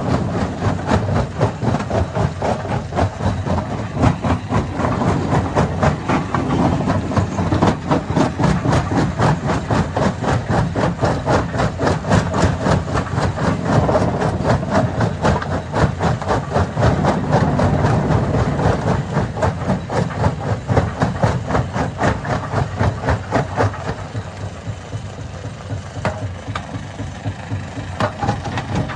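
Hammer-type stone crusher running under load, its engine droning under a dense, rapid knocking and rattling of rock being broken. The din eases for a few seconds near the end.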